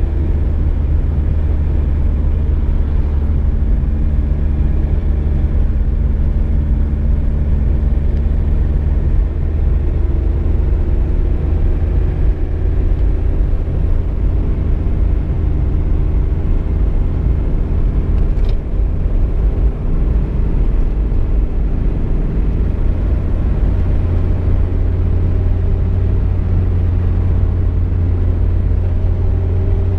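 Cabin sound of a VW Golf Mk2 on the road: a steady low rumble of engine and tyres. The engine note climbs slowly through the second half as the car picks up speed.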